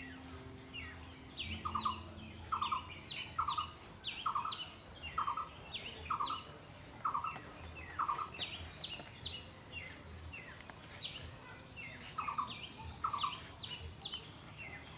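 Birds chirping: a run of short, evenly repeated calls about two a second, with higher chirps overlapping. The repeated calls stop around the middle and return briefly near the end.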